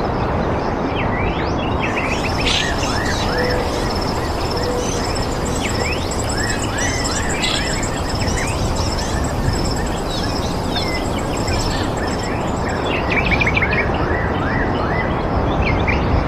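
Several birds chirping and calling in quick short notes and sweeping calls, over a steady rushing background noise. A high, rapidly pulsed note runs through the middle of it and stops a few seconds before the end.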